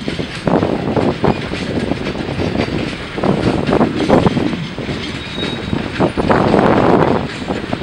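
Freight train rolling by during yard switching: a steady rumble of railcars with irregular knocks and rattles from the wheels and cars.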